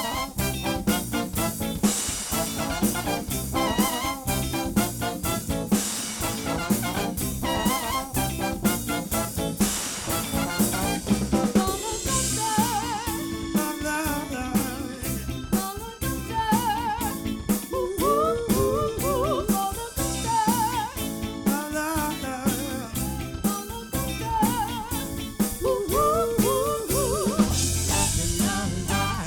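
A live soul band playing, with the drum kit keeping a steady beat and a wavering lead melody coming in about halfway through.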